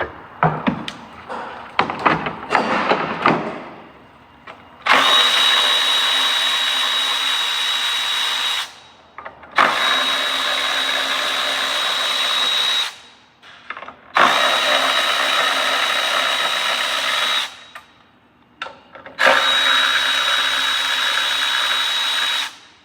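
A power drill fitted with a Torx bit runs in four steady bursts of about three seconds each, with a constant high whine, backing out fasteners. Before the first burst there is a few seconds of metallic clinking as tools and bits are handled.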